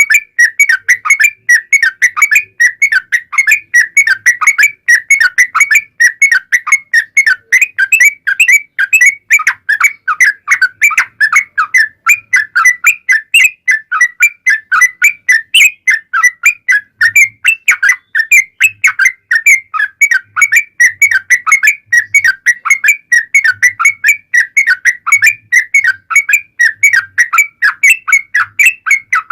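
Yellow-vented bulbul (trucukan) singing a long, unbroken run of quick, bubbling whistled notes without pause: the 'ropel panjang' full song of a bird in top singing form.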